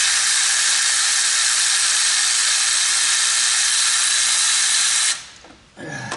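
A loud, steady hiss of pressurized air that starts abruptly and cuts off about five seconds in.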